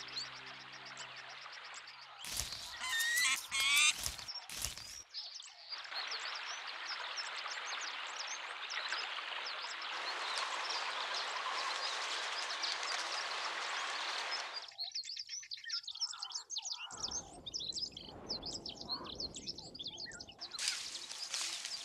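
Wild birds chirping over an outdoor ambience that cuts abruptly between textures several times, with a dense steady hiss from about six to fifteen seconds in. A music bed fades out in the first two seconds.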